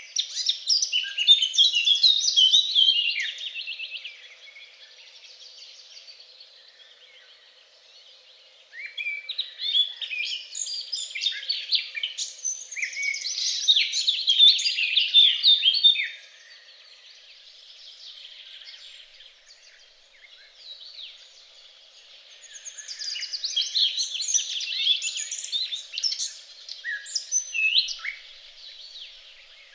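Songbirds singing, with long phrases of rapid, twittering notes at the start, from about nine to sixteen seconds in, and again near the end. Softer chirping fills the gaps between.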